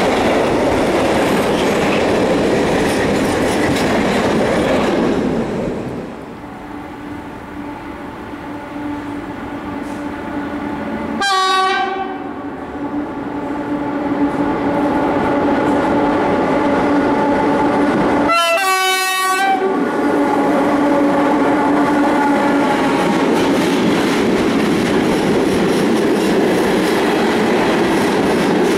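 Open coal wagons of a freight train rolling past close by with a loud rumble and clatter, which cuts off about 6 s in. Then an approaching ET40 electric locomotive sounds its horn twice, briefly about 11 s in and longer about 18 s in, with a steady hum between the blasts. From about 20 s in its train of coal wagons rumbles past.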